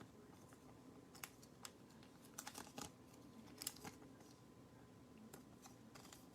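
Faint, irregular light clicks and taps from hands handling small objects at a desk, with a small cluster in the middle and one sharper click a little later.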